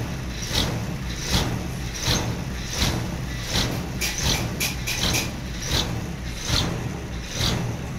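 Sawmill machinery running under a steady low drone, with a short swish repeating about every three-quarters of a second, and a few quick clicks about halfway through.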